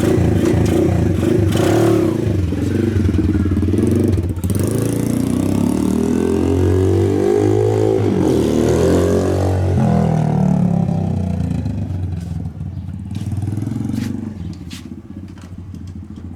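Single-cylinder four-stroke engine of a 125cc Bosuer PH5B pit bike running, then revving, its pitch climbing for a few seconds and dropping again about eight seconds in. The sound then fades steadily toward the end.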